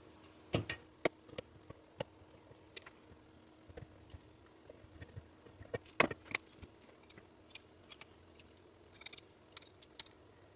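Irregular small metallic clicks and clinks as a piece of steel is worked and peeled away from a copper core by hand, with louder clacks just over half a second in and around six seconds in.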